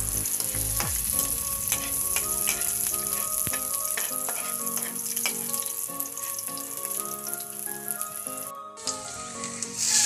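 Food frying in hot oil in a wok, a steady sizzle, with the clicks and scrapes of a metal utensil stirring against the pan. The sizzle drops out briefly near the end.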